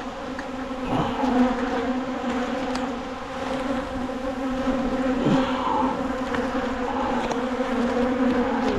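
Many honeybees buzzing around an opened hive in a steady hum, with single bees flying close past about a second in and again about five seconds in, their pitch sliding as they go. The bees are stirred up and defensive from the hive being taken apart.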